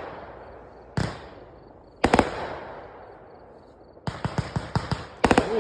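Consumer aerial fireworks going off: a single loud bang about a second in and another about two seconds in, each with a rolling echo, then a quick string of sharper crackling reports from about four seconds to the end.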